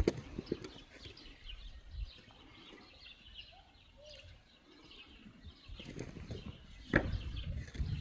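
Faint small-bird chirps repeating, with a few sharp knocks near the start and a louder single knock about seven seconds in, followed by low rumbling noise.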